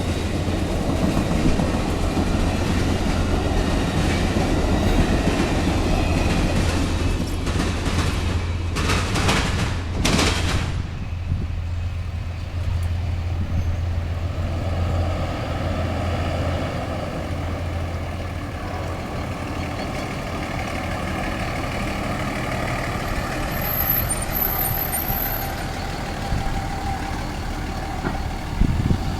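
Amtrak Silver Star passenger train running by: a steady low engine drone over rolling rail noise, with two brief loud swells about a third of the way in. The drone drops away about halfway, leaving a lighter, even rolling noise.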